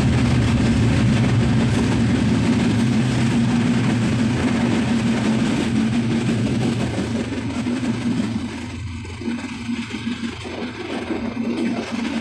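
A train running, heard from inside the carriage: a steady rumble with a low engine hum, growing quieter in the second half.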